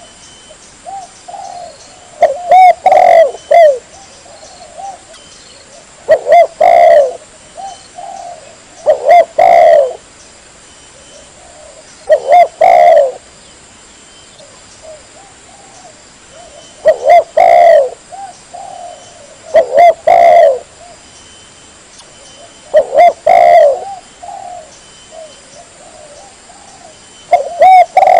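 Spotted dove (tekukur) cooing: loud phrases of several low coos, each about a second long, repeated every three seconds or so, with softer coos in between. A clean, continuous call of the kind played as a lure for wild doves.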